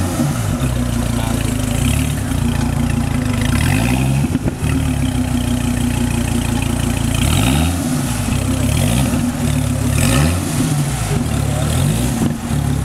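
A supercar engine idling and being blipped repeatedly, each rev climbing and dropping back to idle, with a quick run of several blips in the second half.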